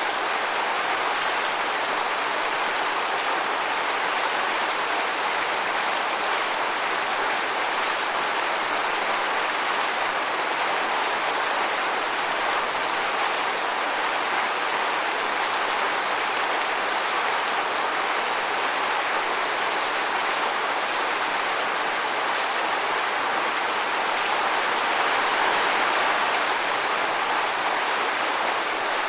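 Waterfall: falling water rushing steadily, a constant hiss centred in the mid and upper range.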